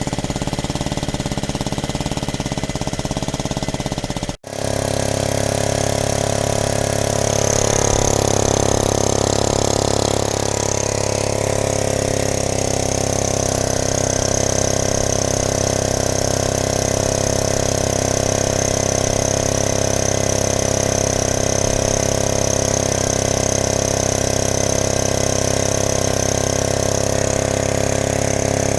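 Small 1960s Honda E40 generator's four-stroke engine running steadily, with a brief break about four seconds in, after which it runs on evenly with a faint high whine over it.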